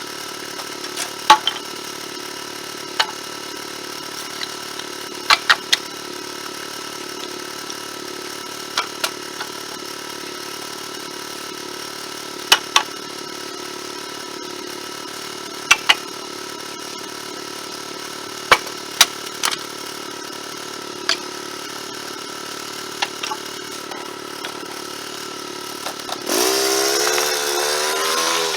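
Engine idling steadily, with scattered sharp clicks and knocks, then revving up with a rising pitch about two seconds before the end.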